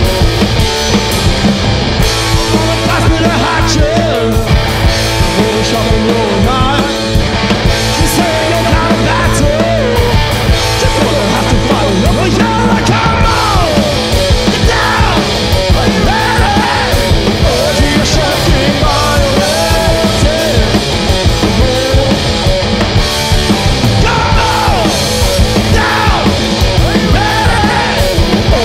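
Live punk rock band playing loud and without a break, with electric guitar and drums.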